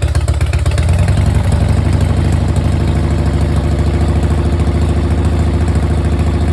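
Harley-Davidson V-twin engine idling with a steady, loud, uneven lope.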